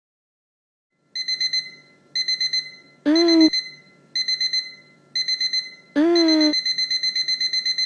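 Digital alarm clock beeping: quick groups of beeps about once a second, starting about a second in and turning into non-stop fast beeping about six seconds in. A short voice sound cuts in twice over the beeping.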